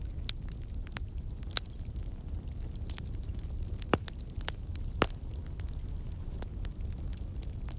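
Wood fire burning in a fireplace: a steady low rumble with frequent sharp crackles and pops, two louder pops about four and five seconds in.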